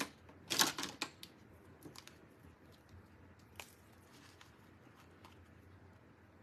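Craft supplies being rummaged through in search of a marker: a short rustle about half a second in, then scattered light clicks and taps.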